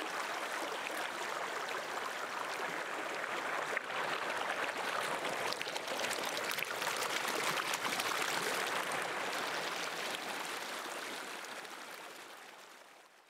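Flowing river water, a steady rushing that fades out over the last few seconds.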